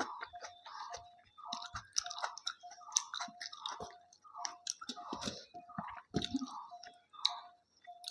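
Close-up chewing of food, about two chews a second, with a few heavier crunching bites.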